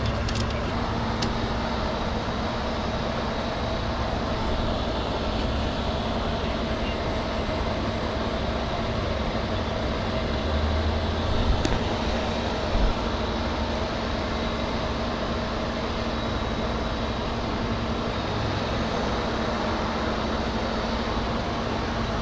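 Large vehicle engine running steadily at idle, a constant drone with a steady hum. There are a couple of brief low thumps partway through.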